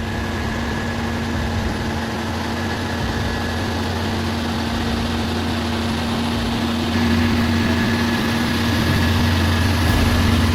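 A heavy vehicle's engine running steadily with a constant low hum, growing a little louder about seven seconds in.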